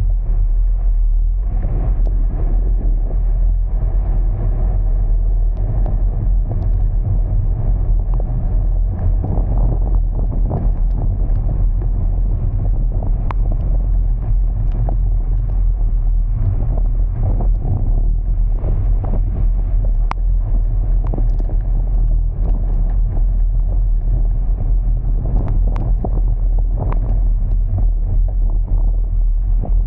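Car driving through heavy rain on wet streets: a loud, steady low road and engine rumble with a noise of rain and water, and scattered sharp ticks throughout.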